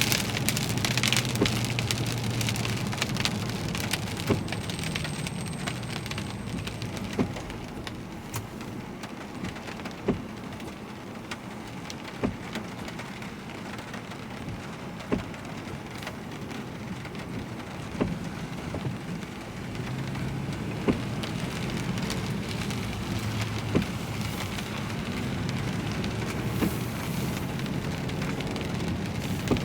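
Rain pattering steadily on a car, with scattered louder single drops hitting sharply, over a low hum of the vehicle. The hum drops back in the middle and comes up again about two-thirds of the way through.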